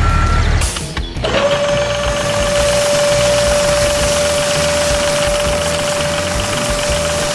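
A small machine motor starts about a second in and runs with a steady, even whine over a hiss.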